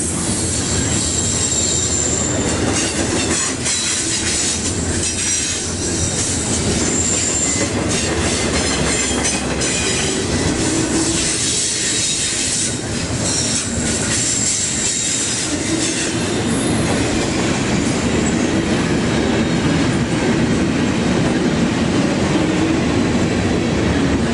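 Double-stack intermodal well cars rolling past: a steady rumble of steel wheels on rail, with clicking from wheels crossing rail joints and brief high-pitched wheel squeals now and then in the first two-thirds.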